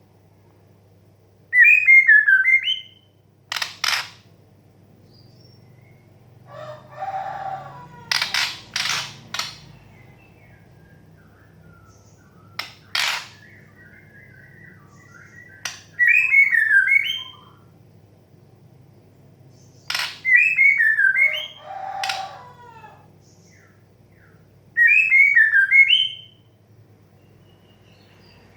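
Female white-rumped shama calling: harsh clicking 'cetrek' notes alternate with short zigzag whistled phrases, repeated every four or five seconds, over a faint low hum. These are calls for a male, from a bird in breeding condition.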